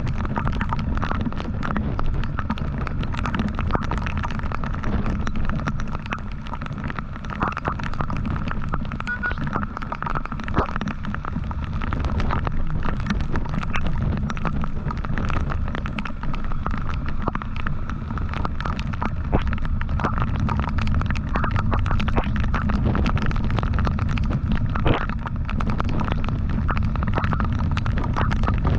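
Wind buffeting the microphone of a moving motorcycle, a constant low rumble over the engine and road noise, with frequent short gusts and knocks.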